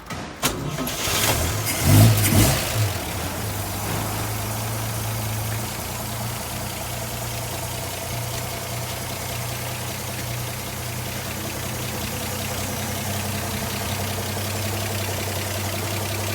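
Stock 216 cubic-inch stovebolt inline-six of a 1953 Chevrolet 3100 pickup starting: a click, then a loud burst as it catches about two seconds in, settling into a steady idle.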